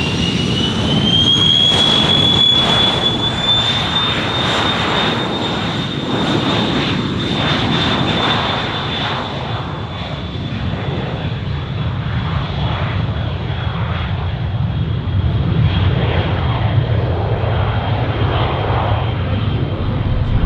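Cessna Citation XLS's twin Pratt & Whitney PW545 turbofans: a high whine rises over the first few seconds as the engines spool up, then holds steady while a low rumble builds in the second half.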